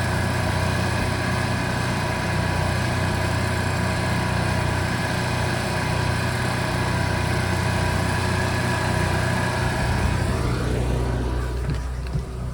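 RV's onboard generator engine running steadily with an even hum. Near the end the higher part of the sound fades, leaving a lower hum.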